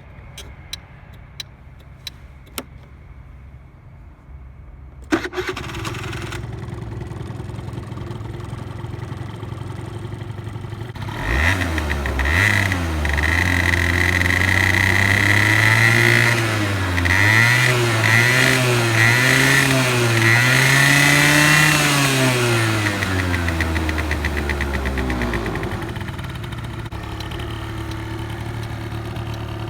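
A few sharp clicks, then a Honda Live Dio AF35 scooter's small two-stroke engine starts about five seconds in and idles. From about eleven seconds the throttle is revved up and down repeatedly before the engine settles back to a steady idle near the end.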